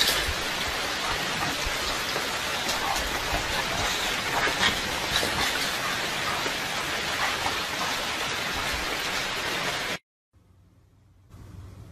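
Steady rain hiss with a scattered patter of drops, cutting off abruptly about ten seconds in, followed by near silence.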